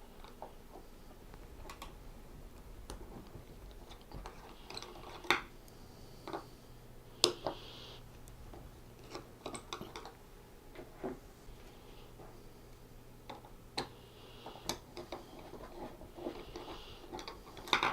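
Screwdriver work on the Phillips screws of a small metal waveguide switch housing: scattered light clicks and brief metallic scrapes at irregular intervals as screws are turned out and parts are handled.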